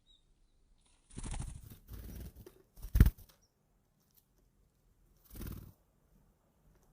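Small birds' wings fluttering in short bursts as they fly to and from a feeder, with one sharp knock about three seconds in, the loudest sound.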